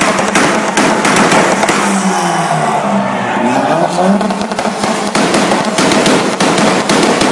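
Car engine revved up and down several times through a very loud exhaust for a loudest-exhaust contest, with sharp pops and crackles.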